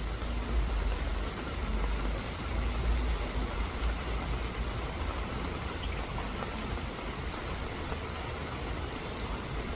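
Steady rain falling, an even hiss, with a low rumble underneath that is strongest in the first few seconds.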